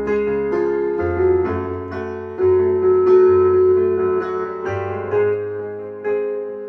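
Piano playing an instrumental passage: sustained chords over low bass notes, with a new chord struck every second or so, from an acoustic piano cover of a K-pop song.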